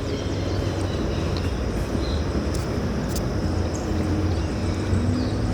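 Steady low outdoor rumble, with a few faint high chirps.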